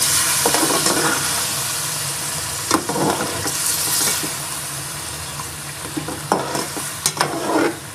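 Mutton and yogurt sizzling as they fry in a pot, with a steady hiss. A metal spoon scrapes and stirs through the meat several times.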